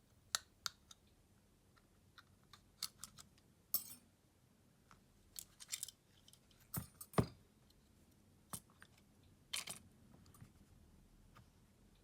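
Irregular small clicks and taps of hand tools and plastic and metal phone parts being handled while a Xiaomi Redmi Note 11 is taken apart, with a low hiss between them. The loudest two knocks come a little past the middle.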